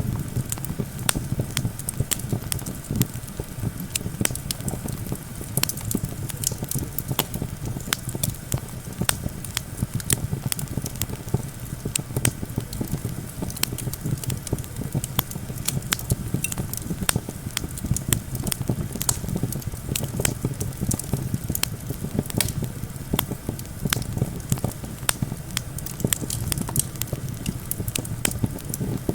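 Campfire crackling and popping with frequent irregular snaps, over a steady low rumble of wind.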